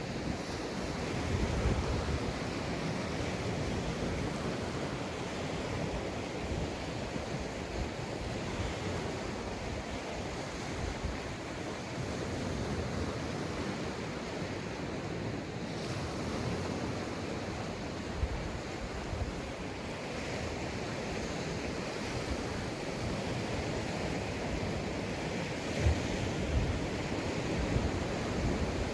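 Sea waves breaking and washing up a sandy beach in a steady rush, with wind buffeting the microphone now and then.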